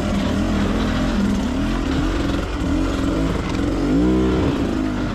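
Enduro motorcycle engine revving up and down as it is ridden off-road, with a sharp rise and fall in revs about four seconds in.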